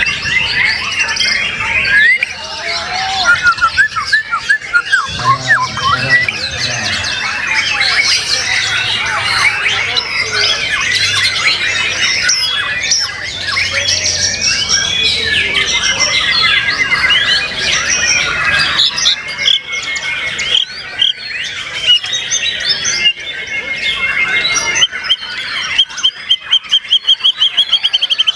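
White-rumped shamas (murai batu) singing hard in a contest hang, many birds' quick whistles, chirps, trills and harsh notes overlapping continuously. Near the end a fast, rapidly repeated rattling trill stands out.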